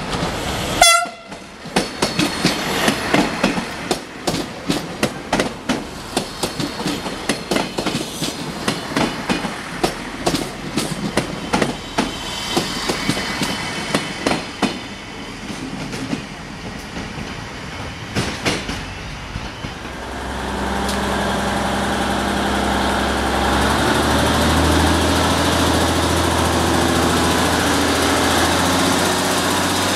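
Siemens Desiro diesel multiple unit arriving: a short, loud horn toot about a second in, then wheels clicking and clattering over rail joints and points as it rolls in slowly. From about 20 s the train stands with its diesel engine idling in a steady hum.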